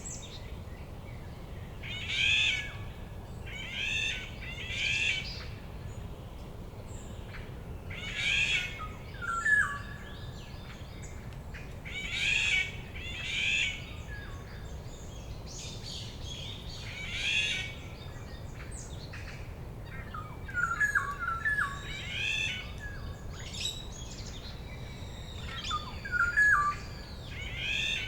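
Wild songbirds singing: one bird repeats a short, high, trilling phrase every two to four seconds, while another gives lower chirps now and then, over a steady low rumble.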